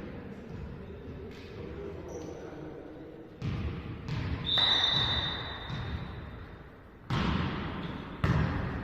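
A volleyball being struck by hands several times, four sharp smacks that echo in a large sports hall, with a brief high-pitched tone between the first two and the last two and a low background murmur of the hall.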